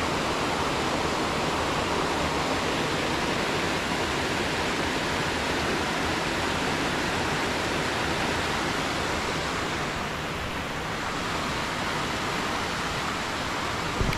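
Anna Ruby Falls' water rushing steadily, an even dense roar of falling water.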